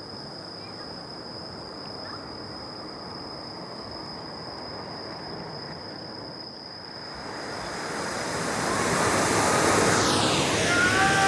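A steady high insect trill over faint background hiss, then from about seven seconds in a firework fountain spraying sparks, its rushing hiss swelling to full strength near the end.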